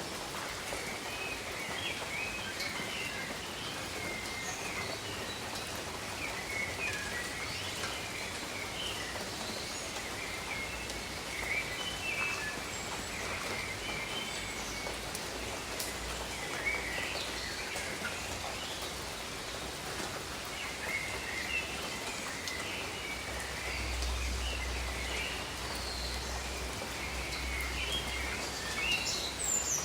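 Steady rain falling on tropical jungle foliage, with birds chirping through it.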